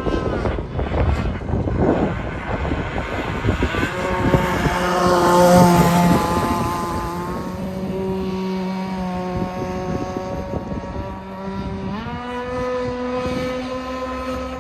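Open-port model airplane engine running in flight. Its buzzing pitch shifts as the plane passes, loudest about five seconds in, and steps up sharply about twelve seconds in as the throttle opens.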